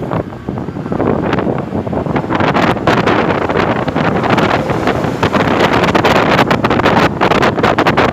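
Wind buffeting the microphone in irregular gusts over a steady low rumble, growing louder about a second in.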